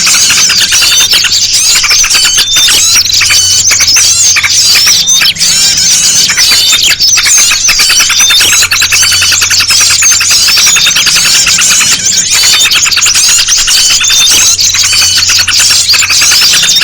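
Bird-trapping lure recording: a dense, continuous mix of agitated small-bird calls, with yellow-vented bulbul (trucukan) chatter layered over many rapid high chirps and twitters. A low hum underneath fades in and out every few seconds.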